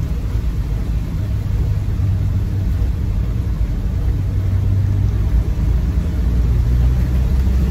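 Inside the cab of a Land Rover Defender 90 on the move: the 2.2 TDCi four-cylinder turbodiesel running under way with tyre and road rumble, a steady low drone.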